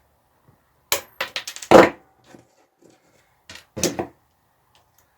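Metal hand tools and parts clinking and clattering as they are handled: a quick run of clicks about a second in ending in a loud clank, then another short clatter near four seconds.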